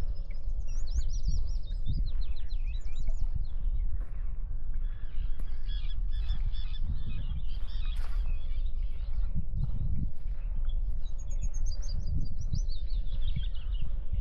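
Songbirds singing: quick descending trilled phrases near the start and again near the end, with busy chattering calls in the middle. Underneath run a steady low wind rumble and soft footsteps about once a second.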